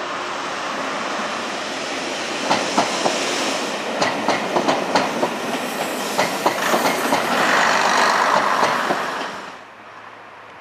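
Chiltern Railways Class 117 diesel multiple unit, the 'Green Goddess' water jetter, passing close by. Its wheels clack over points and rail joints from about two and a half seconds in, a louder rushing hiss follows, and the sound drops away suddenly near the end as the train passes.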